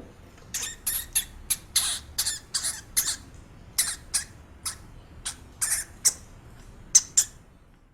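A small animal giving a rapid, irregular series of short, high-pitched squeaks or chirps, about twenty in all.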